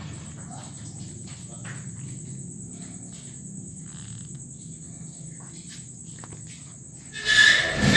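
Crickets chirring steadily at a high pitch, with faint scattered clicks; a short, louder cry breaks in near the end.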